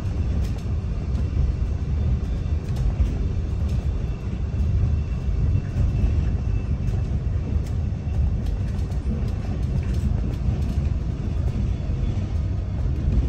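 Steady low rumble of a Melbourne Metro electric suburban train running along the line, heard from inside the carriage.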